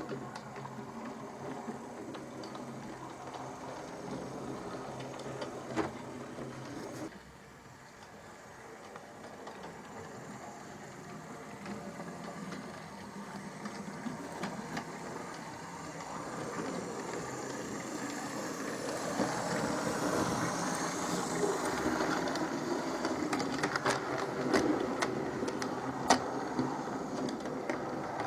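Hornby RailRoad Duke of Gloucester OO-gauge model locomotive running on its track: the electric motor whirs and the wheels roll on the rails with occasional clicks. It drops back about seven seconds in, then grows steadily louder.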